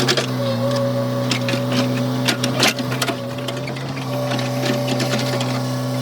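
Komatsu excavator's diesel engine running at a steady speed, with scattered knocks and clatters from the machine working, the loudest a cluster about two and a half seconds in.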